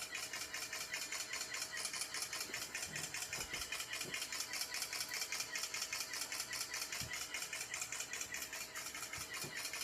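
Smartphone camera shutter firing in burst mode, a rapid even stream of clicks, about eight or nine a second, with a few faint knocks from handling the phone.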